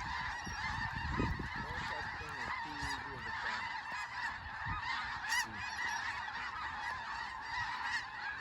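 A huge flock of snow geese calling overhead: a constant din of many overlapping, high-pitched honks and yelps with no break.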